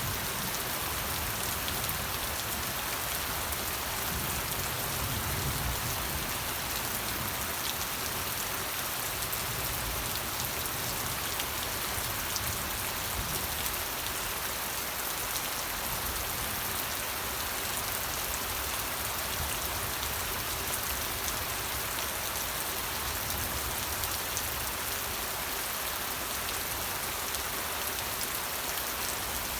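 Steady rain falling, a continuous hiss of drops with fine patter and a soft low rumble underneath.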